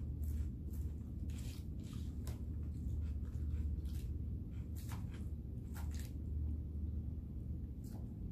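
Close-up chewing and mouth sounds of a person eating chicken and noodles: scattered small wet clicks and smacks, over a steady low hum.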